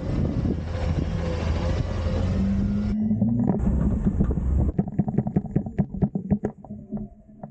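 Garbage truck's diesel engine running hard, its pitch rising as it drives the hydraulics to dump a bin. Then a quicker series of sharp knocks that fade away.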